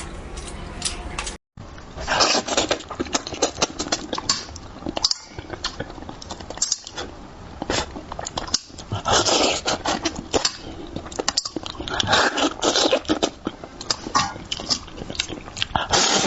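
A person eating spicy braised fish close to the microphone, with wet chewing, smacking and clicking mouth noises and louder noisy bursts now and then. The sound breaks off briefly about a second and a half in, then the eating goes on.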